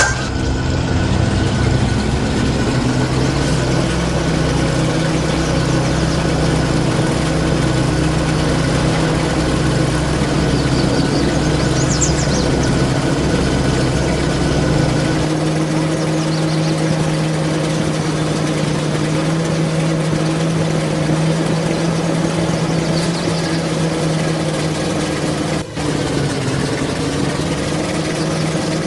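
Truck engine running steadily at a constant speed; about halfway through the deep low rumble drops away while the engine note carries on.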